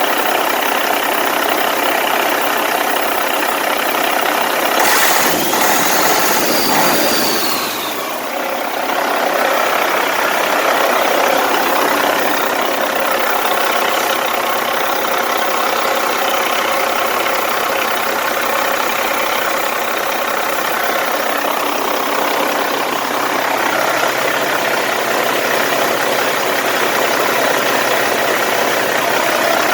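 Caterpillar C15 6NZ single-turbo diesel engine running steadily at idle on a test run. A few seconds in, a brief swell rises and falls in pitch, then the engine settles back to idle.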